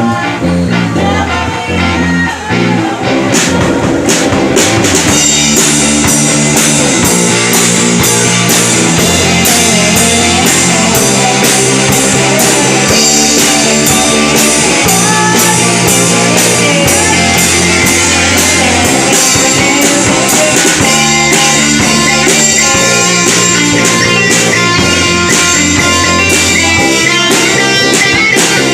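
A rock band plays with guitars and a drum kit. The drums come in about four seconds in and keep a steady beat from there.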